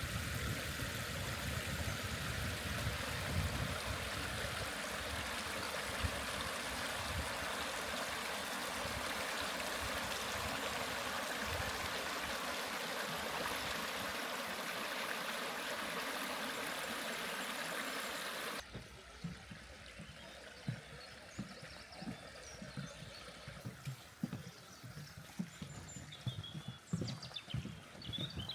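Waterfall water rushing steadily. About two-thirds of the way in it cuts off abruptly to a much quieter stretch with scattered light knocks and a few faint chirps.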